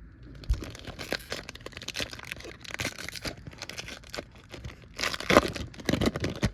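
Plastic wrapper of a Topps trading-card pack being torn open and crinkled, a run of irregular rustling crackles that is loudest about five seconds in.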